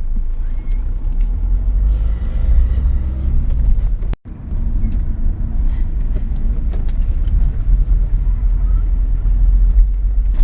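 Car driving along, its engine and road rumble heard from inside the cabin as a loud steady low drone. The sound drops out briefly about four seconds in, then resumes.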